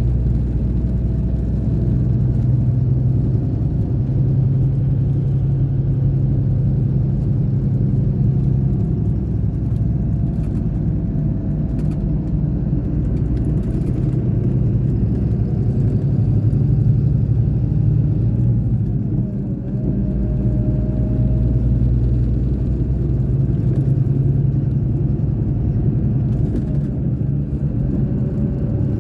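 Scania K420 bus engine running steadily under way, its pitch dipping briefly about two-thirds through and again near the end.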